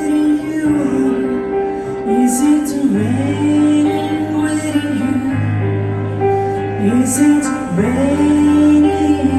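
Piano-and-voice music: a woman singing a slow melody over held piano notes.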